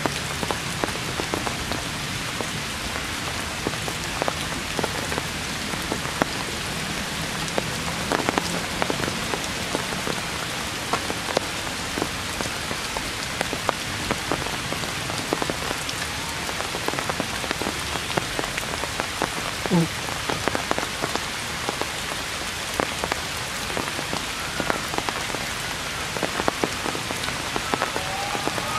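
Heavy rain falling on forest leaves: a steady hiss with many sharp drips and spatters. A short downward-sliding squeak sounds once about twenty seconds in.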